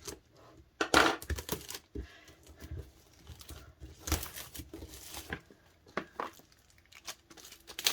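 DVD packaging being unwrapped by hand, plastic wrap crinkling and tearing in short bursts. The loudest rip comes about a second in and another about four seconds in, with smaller rustles between.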